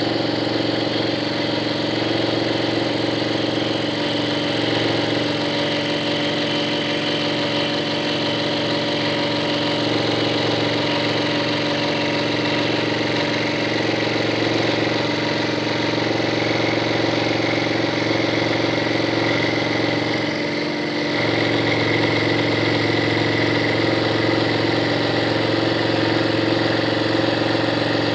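Scroll saw running steadily and cutting, a constant motor-driven hum with the blade's rapid reciprocating buzz; the sound shifts briefly about two-thirds of the way through.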